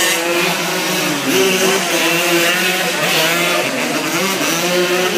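Several racing motorcycle engines at high revs at once, their pitches rising and falling through gear changes as they run round the track.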